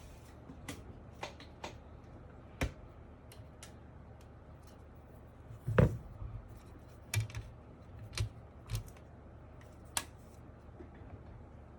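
Scattered clicks, taps and knocks of plastic and metal keyboard parts being handled while an MK870 mechanical keyboard is taken apart, with one louder thump about six seconds in and a few more knocks after it.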